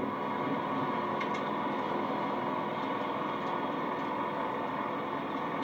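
Steady hum of a running vehicle, with a few faint ticks.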